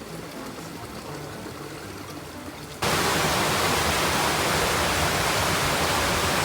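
Faint background music over quiet water noise, then about three seconds in a sudden jump to loud, steady rushing river water.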